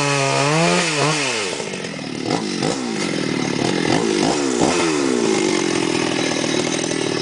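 Two-stroke chainsaw cutting timber, its engine speed wavering up and down, then dropping about a second and a half in. After a few quick rises and falls, it settles to a steady lower speed near the end.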